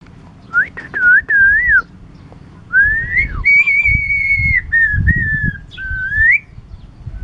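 Javan myna whistling a tune: a few short wavering whistled notes in the first two seconds, then a rising glide into a long held note, and more wavering notes ending on an upward sweep.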